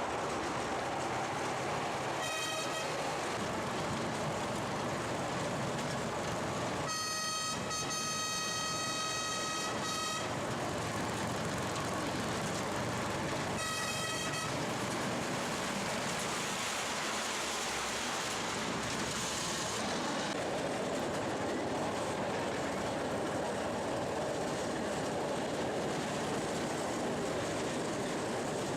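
Whistle of a 10-inch-gauge miniature railway locomotive sounding three times: a short toot, a long blast of about three seconds, then another short toot, over the steady noise of the running train.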